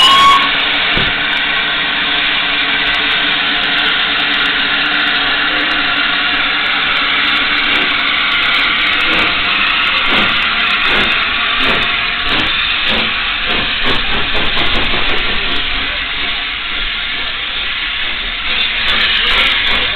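Peppercorn A1 three-cylinder steam locomotive 60163 Tornado starting away: a steady, loud hiss of escaping steam, with exhaust chuffs coming through from about eight seconds in and quickening as the engine gathers speed.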